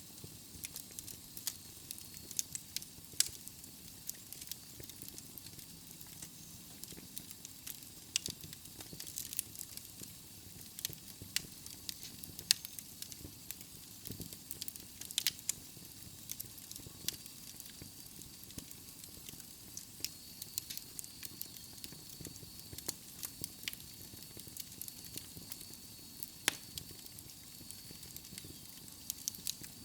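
Wood logs burning in a fireplace: irregular sharp crackles and pops over a soft steady hiss.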